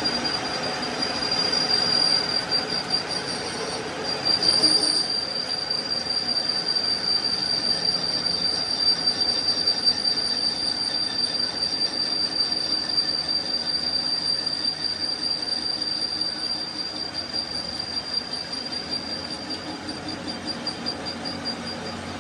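Metal-on-metal machining squeal: one steady, high-pitched whistling squeal with a slight flutter, over workshop noise. It swells briefly about four to five seconds in and eases a little near the end.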